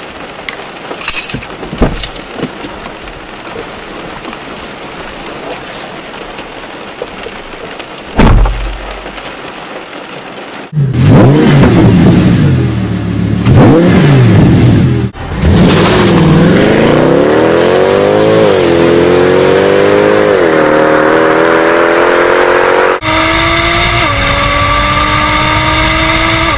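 A run of car sounds: first a steady hiss with sharp clicks and one heavy thump about eight seconds in, then an Audi R8's engine revved hard several times. The engine then accelerates, its pitch climbing and dropping back at gear changes, and near the end a cut brings in a steadier, higher engine drone from another car.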